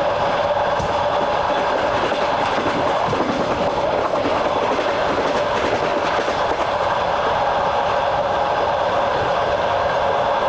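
Train wheels rolling on the rails at steady speed, heard from on board: an even rumble with clickety-clack from the rail joints and a steady hum over it.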